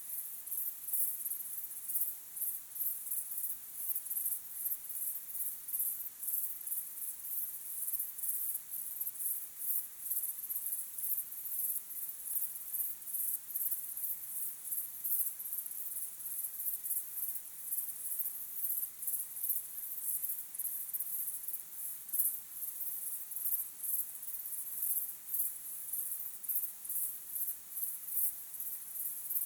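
Crickets chirping in a dense, continuous high-pitched chorus of rapid pulses.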